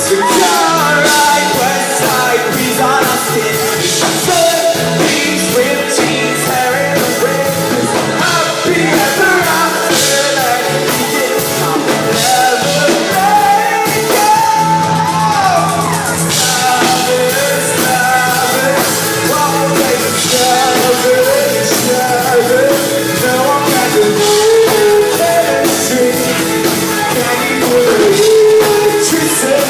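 Live pop-rock band playing loudly, a singer's voice over drum kit and band.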